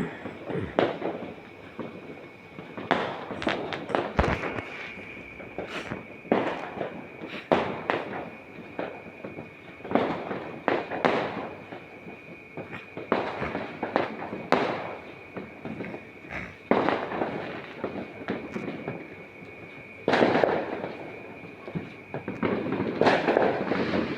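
Fireworks and firecrackers going off: a string of sharp bangs at irregular intervals, with a couple of longer, denser volleys near the end. A thin, steady high tone runs underneath.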